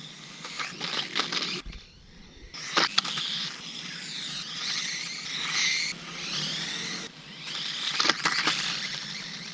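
Team Associated SC28 1/28-scale RC truck driving, its small electric motor whining up and down in pitch as it speeds up and slows, over a hiss of tyres on the ground. There are a few sharp knocks, the loudest about three seconds in and two about eight seconds in, and the sound drops out briefly twice.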